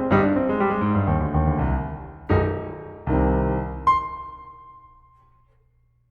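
Background piano music: a few chords struck and left to ring, with a high note near the end, fading out to silence about five seconds in.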